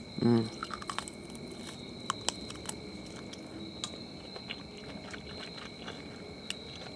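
A person biting and chewing barbecued squirrel meat off the bone, making scattered small wet clicks and crunches. Crickets trill steadily and high-pitched throughout.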